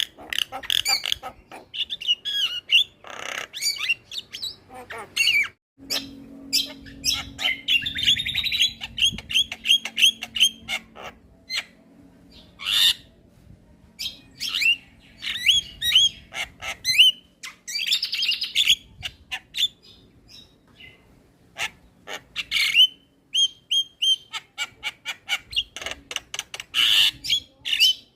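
Javan mynas calling busily in a dense jumble of short squawks, clicks, whistles and rapid chattering trills. After a brief break about six seconds in, a faint steady hum sits underneath.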